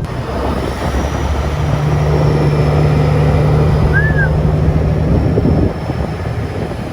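Vehicle driving at freeway speed: a steady low engine drone with road and wind noise, easing off a little near the end.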